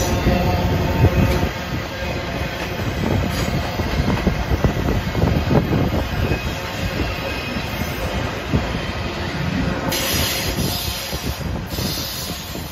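Double-stack intermodal freight train rolling past: a steady low rumble of steel wheels with irregular clanks and knocks from the well cars, and a brief burst of hissing high noise about ten seconds in.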